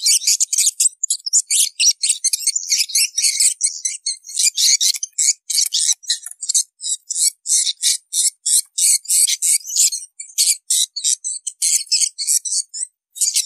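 Swiftlet calls: a dense run of rapid, high chirps and twitters with a few short gaps. This is the call sound used in swiftlet farming to lure the birds to a nesting house.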